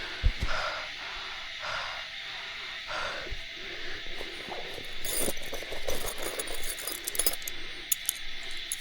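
Crackling and rustling, like leaves and twigs being handled or stepped on, thickening after about five seconds, over a steady high-pitched insect drone; faint voices in the first few seconds.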